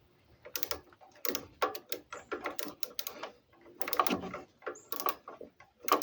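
Irregular clicks and light knocks of metal parts and hand tools being handled while reassembling a small mower engine, about a dozen in a few seconds.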